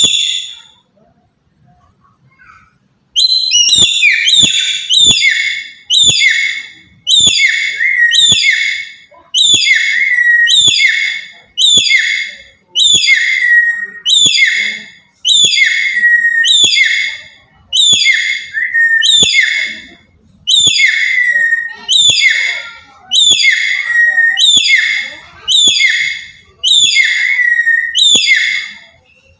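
Black-capped lory giving a long series of loud, shrill calls, each sliding down in pitch, repeated about once a second and starting about three seconds in.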